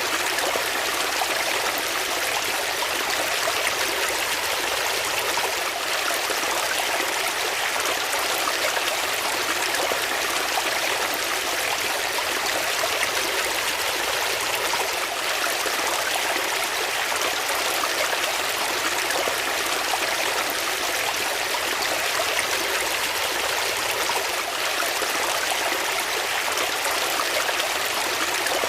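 Water flowing steadily, an even rushing sound with no breaks or changes.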